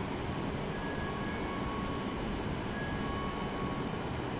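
Steady running noise of an E7 series Shinkansen standing at the platform with its onboard equipment running. Faint, brief high tones come and go.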